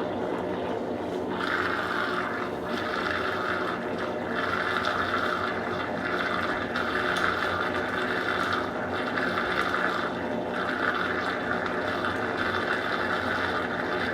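Consul Supercargo 8 kg top-load washing machine running with water in the tub. The water noise comes in stretches of one to two seconds with short breaks between them.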